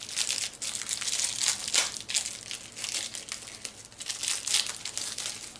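Foil-wrapped Magic: The Gathering booster packs crinkling as they are handled and set down, a continuous crackle of many small rustles.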